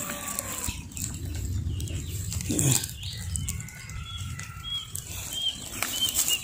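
Short high bird chirps, repeated several times through the second half, over a steady low rumble.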